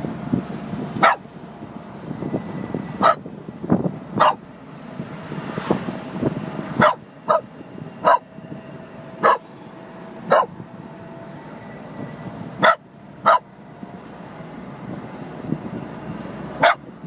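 A dog barking in single sharp barks, about a dozen spaced irregularly, at a truck ahead, with the road and wind noise of an open convertible underneath.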